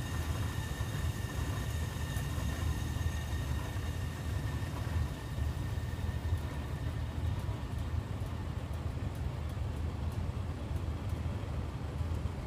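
Faulty gas furnace running with a steady low rumble, which the owner says keeps blowing out and barely heats. A few faint high whining tones fade away about halfway through.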